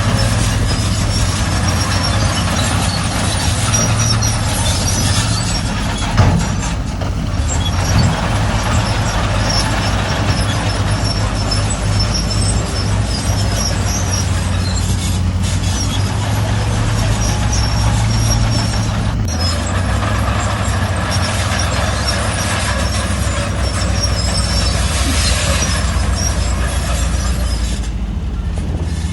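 Heavy diesel earthmoving machinery running steadily under load, a low engine drone with hiss over it, and one sharp clank about six seconds in.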